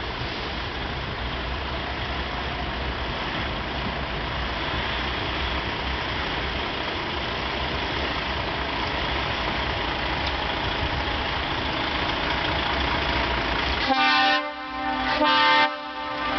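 Steady low rumble of running heavy engines, then near the end two loud blasts of a truck's air horn, each about half a second long.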